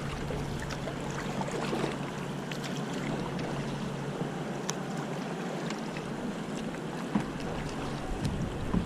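River water rushing and splashing along a solo canoe's hull: a steady wash of water noise with scattered small ticks and splashes.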